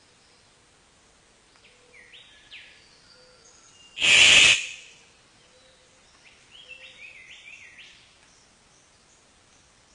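Birds calling in short, rising whistled notes, in two clusters. About four seconds in comes a loud, harsh half-second burst, the loudest sound here.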